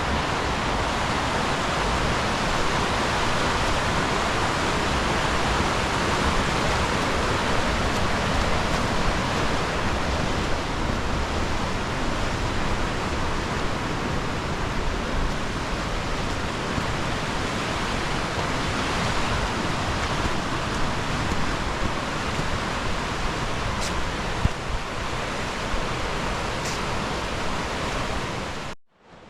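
Waterfall in full spate from heavy rain and snowmelt: a loud, steady rush of water that cuts off suddenly near the end.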